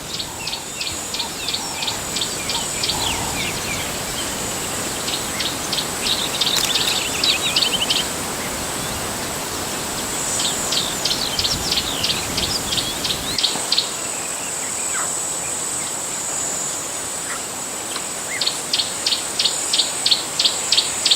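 Natural bush ambience: a steady high insect drone, with a bird repeating quick high chirps several times a second in four runs. The runs come at the start, twice in the middle, and near the end.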